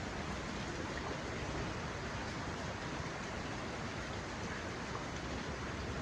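Heavy monsoon rain falling steadily, a constant even hiss with no breaks.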